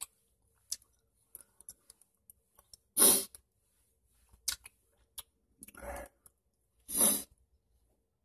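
Mouth chewing sticky caramel with dentures: scattered small wet clicks and smacks, with three louder short bursts of noise about three, six and seven seconds in.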